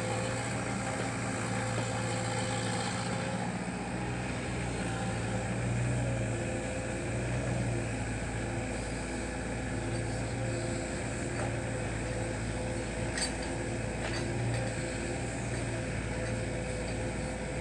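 Caterpillar 305D mini excavator's diesel engine running steadily, with a few faint clicks in the second half.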